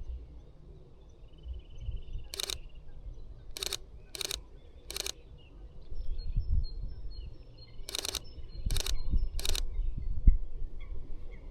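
Sony A6700 mirrorless camera's shutter clicking as single shots are taken, seven clicks in two groups: four spread over a few seconds, then three in quick succession near the end. A bird trills faintly between them over a low wind rumble.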